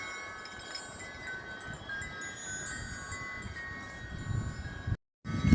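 Wind chimes ringing in gusty wind, several held tones overlapping and slowly fading, with a few fresh strikes. Wind rumbles on the microphone, growing louder near the end, and the sound drops out completely for a moment about five seconds in.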